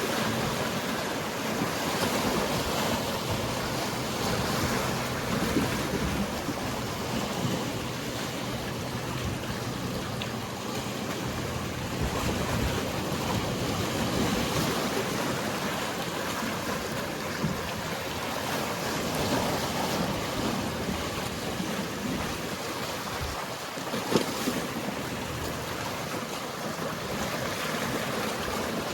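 Mediterranean sea waves washing steadily against the shore, rising and falling in slow swells, with wind on the microphone and a faint low boat-engine hum underneath. A single sharp knock sounds about 24 seconds in.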